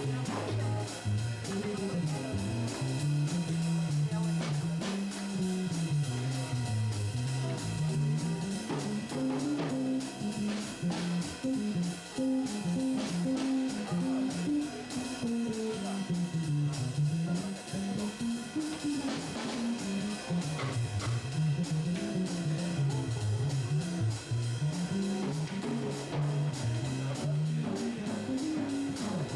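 Jazz trio of guitar, bass and drum kit playing, the bass moving up and down in steady steps under the guitar with cymbal and drum strokes.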